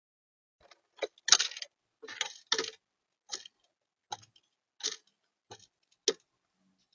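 Irregular taps and short scrapes on the feeder camera's bird feeder, about ten in five seconds, the loudest about a second and a half in: an animal feeding close to the microphone.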